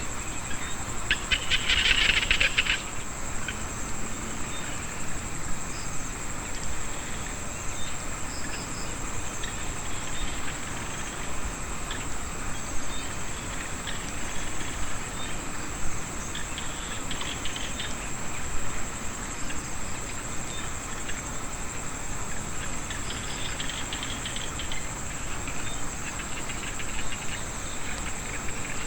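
Rice-field chorus of insects and small frogs after rain: a steady high-pitched insect trill, with short bursts of rapid clicking calls, the loudest about two seconds in and weaker ones later.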